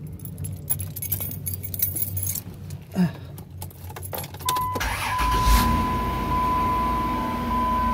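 Keys jangling and clicking as the driver gets in. About five seconds in, the minivan's engine cranks, starts and settles into a steady idle, with a steady high warning chime from the van sounding over it.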